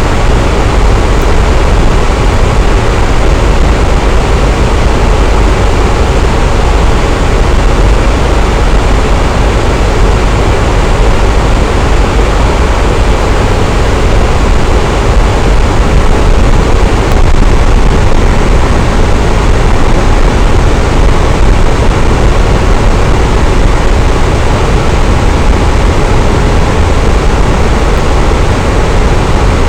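Electric fan running steadily: a constant, even rush of air with a low hum underneath, unchanging throughout.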